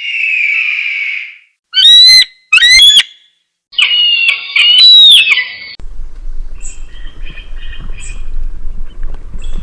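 Raptor calls: a drawn-out scream, then two loud, short, sharp screams less than a second apart and a longer loud call. About six seconds in it cuts to a different recording with faint, thin calls over a steady low rumble.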